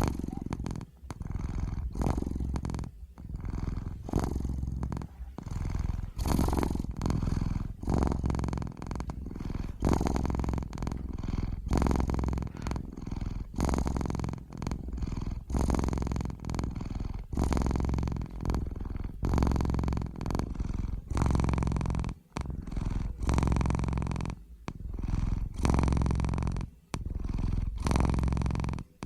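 Domestic cat purring in a steady, even rhythm. The purr breaks off briefly about every two seconds and starts again.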